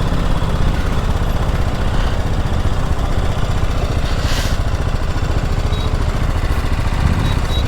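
Motorcycle engine running steadily, heard close up from the rider's camera.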